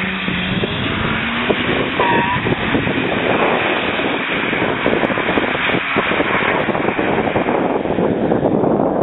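Car engine running at high revs as the car slides sideways through a bend on a wet track, its note rising over the first two seconds.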